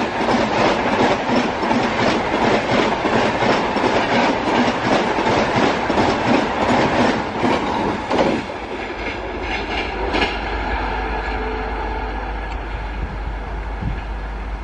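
Passenger coaches of an Indian express train passing close at high speed, the wheels making a fast, steady clickety-clack over the rail joints. About eight seconds in the last coach passes and the sound drops to a fading rumble of the receding train over a steady low hum.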